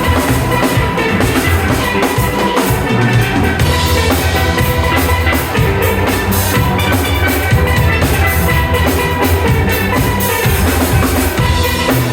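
Steel band playing a lively tune: several steel pans ringing out the melody and chords over a drum kit keeping a steady beat.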